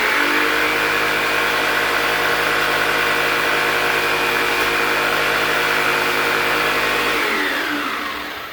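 Electric power saw running at full speed with a steady whine, then switched off about seven seconds in, its pitch falling as the blade winds down.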